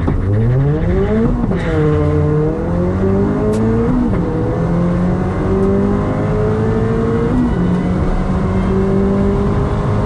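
Ford Fiesta ST's turbocharged 1.6-litre four-cylinder accelerating hard through the gears on a drag-strip pass, heard from inside the cabin. Engine pitch climbs in each gear and drops at three upshifts, the first about a second and a half in and the others roughly every three seconds after.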